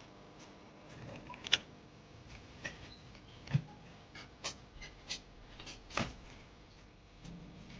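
Scattered light clicks and taps of small tools and phone parts being handled during an iPhone repair, about a dozen irregular clicks with a few sharper ones.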